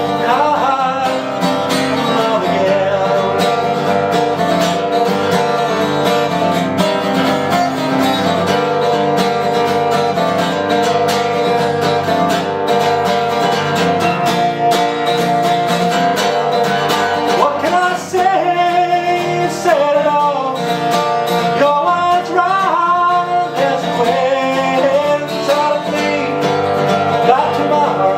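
Folk-country song played on acoustic guitar, plucked strings with a voice singing over them.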